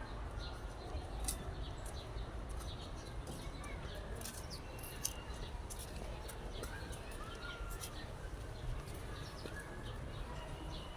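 Small birds chirping repeatedly in short high notes, with a few brief gliding calls, over a steady low outdoor background hum.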